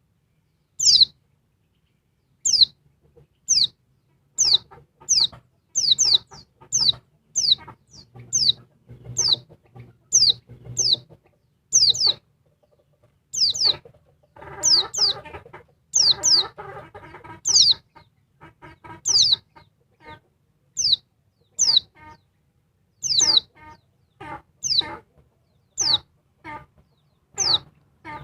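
Female white-eye (pleci) calling: sharp high chirps that sweep downward, about one a second and often in pairs. Lower clucking chatter runs between them, heaviest about halfway through.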